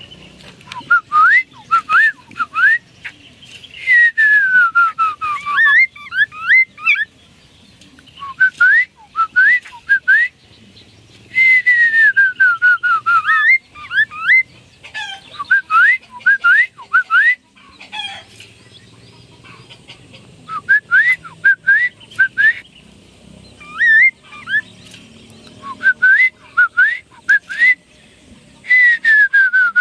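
A poksay mandarin (black-throated laughingthrush) singing loud, clear whistles in bouts: quick runs of short rising notes and long, drawn-out falling slurs, with short pauses between phrases.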